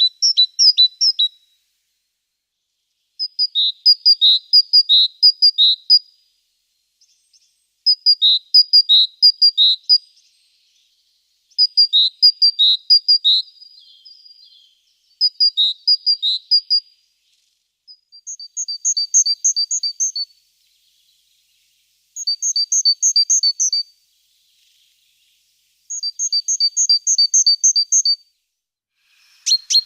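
Great tit singing: eight phrases of repeated two-note whistles, each about two seconds long with short pauses between. About two-thirds of the way through it switches to a faster, higher-pitched song type.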